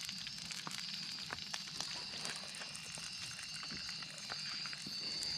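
Campfire crackling with scattered small pops, over a steady high chirring of night insects.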